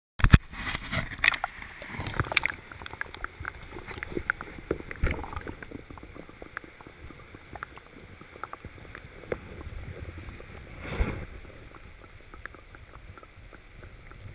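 Small sounds from a kayak on the water: water sloshing against the hull, with scattered knocks and clicks against the boat and gear, and a louder swell of water noise near the end.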